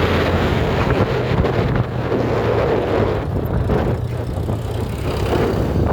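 Motorcycle riding on the road: the engine runs with a low hum that shifts in pitch as the throttle changes, under heavy wind noise buffeting the microphone.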